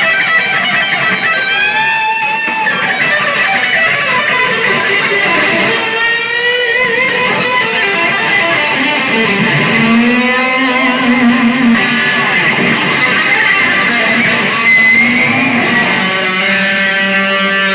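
Amplified electric guitar played live, with sustained, wavering and bending notes.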